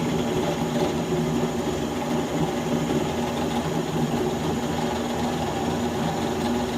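Electric drill motor running steadily with an even hum, drilling stop holes at the ends of cracks in a cast aluminium part so the cracks don't spread.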